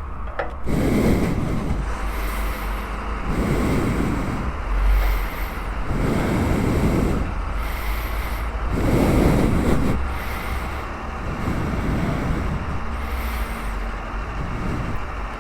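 Steady road traffic noise with low rumbling surges that swell about every two and a half seconds.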